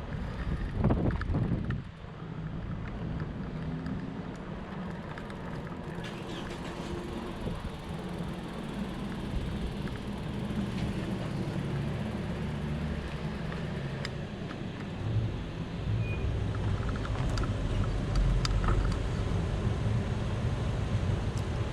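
Fat bike's 4.4-inch Schwalbe Jumbo Jim tyres rolling over the ground: a steady low rumble with scattered small clicks and knocks, a little louder and rougher in the last few seconds.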